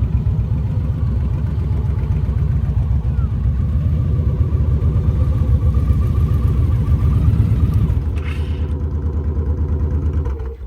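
Motorcycle engine running steadily at low speed, held in the friction zone through a slow full-lock turn. It eases a little about eight seconds in and cuts off sharply near the end.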